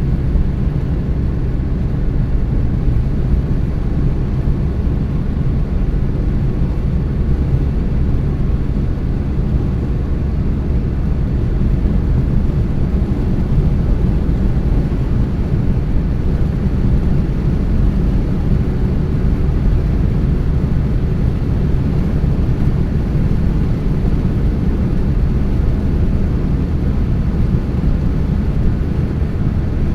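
Car driving at a steady speed: an even, low rumble of tyre and engine noise that stays the same throughout.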